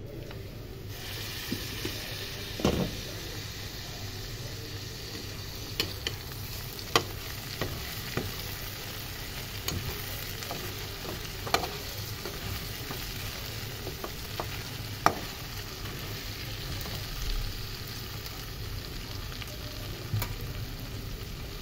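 Okra and raw mango pieces sizzling as they fry in an aluminium kadai, stirred with a spatula. The sizzle comes up about a second in, with sharp knocks of the spatula against the pan every few seconds.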